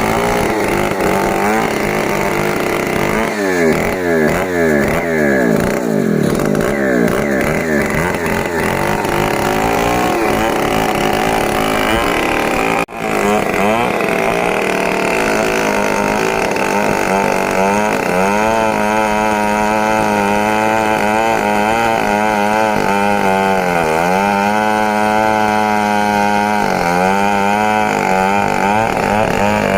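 Large two-stroke Stihl MS 070 chainsaw running hard while cutting wood, its engine pitch dipping under load and climbing back several times. The sound breaks off for a moment about halfway.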